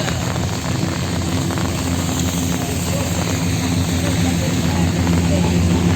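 Traffic on a wet city street: a nearby motor vehicle's engine running steadily over a constant wash of road and rain noise, getting a little louder toward the end.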